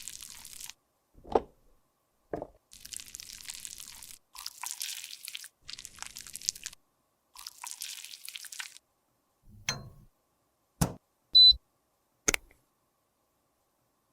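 Makeup product being scraped and crushed with a tool in a run of short scraping strokes, followed by several sharp taps and clicks, the loudest with a brief metallic ring.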